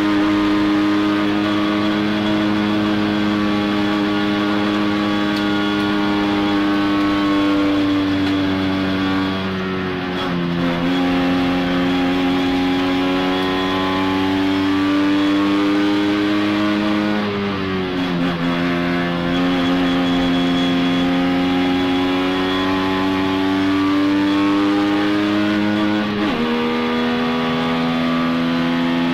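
Three-cylinder two-stroke engine of a 1963 Saab Sport race car, heard from inside the cabin, running hard at high revs on track. Its buzzing note holds fairly steady, and the pitch shifts sharply three times: about a third in, about two thirds in and near the end.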